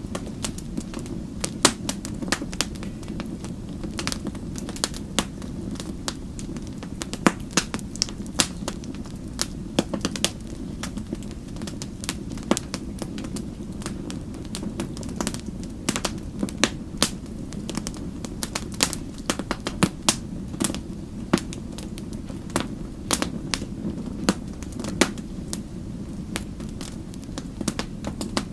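Fireplace fire crackling: frequent sharp, irregular snaps and pops over a steady low rush of flame.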